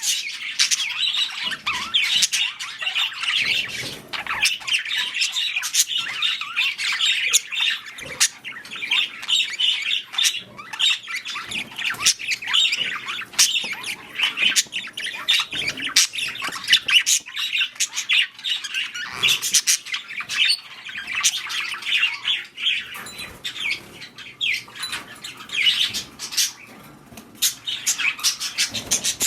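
Budgerigars chattering and squawking without a break, a busy run of fast warbles, chirps and clicks.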